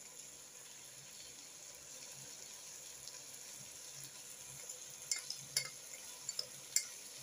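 Chicken pieces and browned onions sizzling faintly in a pot. Several light clinks of a metal spoon against a ceramic saucer come in the last couple of seconds as pilau masala is spooned in.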